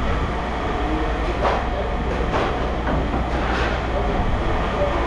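Steady mechanical rumble with a strong low hum and a few faint metallic knocks.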